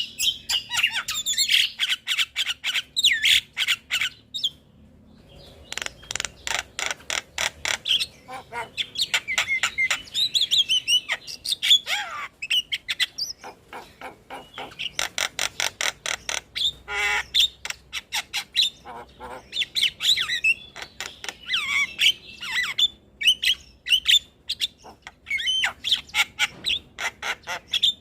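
Javan myna (jalak kebo) song: fast runs of harsh clicking chatter mixed with squawks and whistled notes, with a brief pause about four seconds in.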